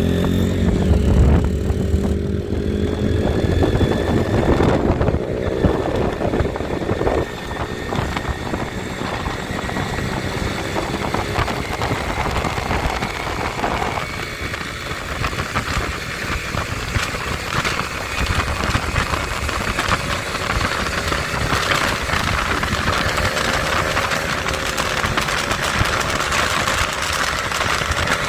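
Yamaha MT-15's single-cylinder engine running, with its pitch rising and falling under the throttle in the first several seconds, then running more evenly.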